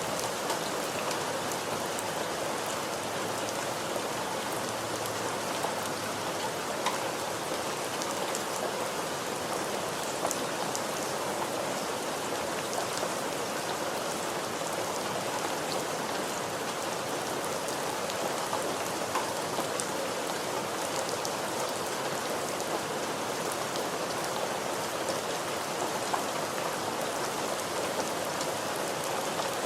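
Steady rain falling, a dense even hiss with scattered ticks of individual drops striking a surface.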